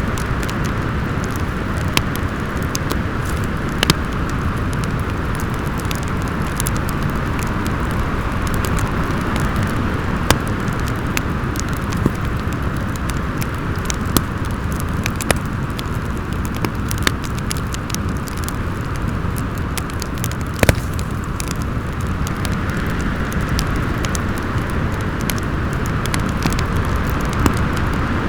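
Steady rushing wind of a snowstorm with a wood fire crackling over it: sharp single pops every second or two, the loudest about two-thirds of the way through.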